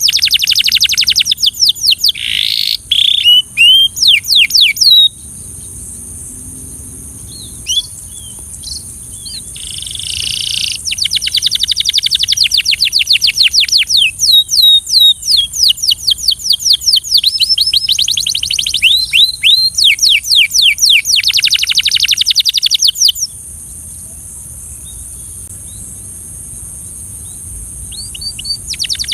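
Belgian canary singing: fast trilled phrases of rapidly repeated falling notes, breaking off twice for several seconds before starting again.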